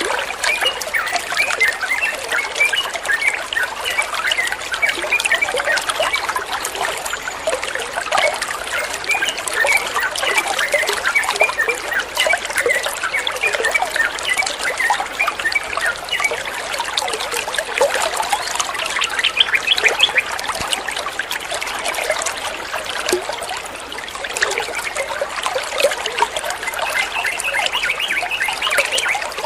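Water trickling and bubbling, with a steady dense patter of small splashes.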